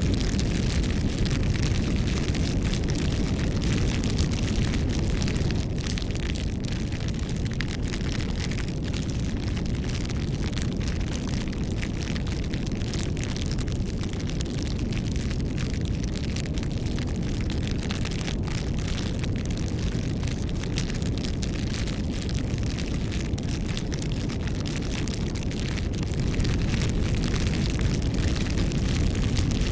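Wood fire burning: a steady low rumble of flames with many small, sharp crackles and pops from the burning wood.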